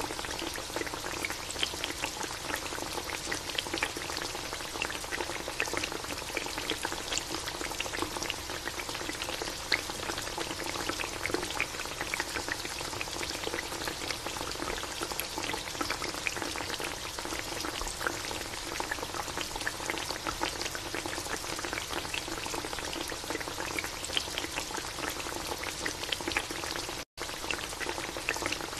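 Chicken adobo boiling hard in a metal wok: the soy-and-vinegar sauce bubbles and sizzles with a steady, dense crackle of small pops over a faint steady hum. The sound cuts out for a moment near the end.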